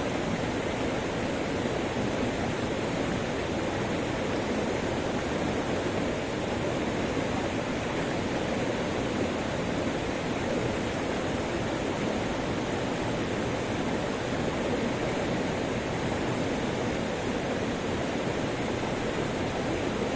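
Waterfall: falling water rushing in a steady, even wash of noise with no let-up.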